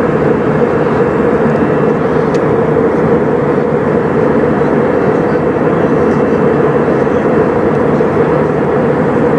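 Steady engine and airflow noise inside the cabin of an Airbus A320 in its climb after takeoff, an even rushing sound with a constant hum in the middle.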